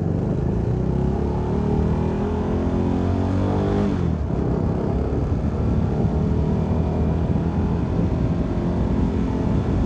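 CFMoto 300NK's single-cylinder engine accelerating, its revs rising for about four seconds, then dropping suddenly at an upshift and running on in the next gear.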